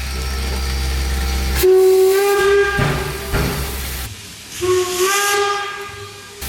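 Steam locomotive whistle of the 1870s Rogers-built NZR K 88, blown twice: a shorter blast and then a longer one, each sliding up onto a steady note. Sounded as the departure signal after the "right away".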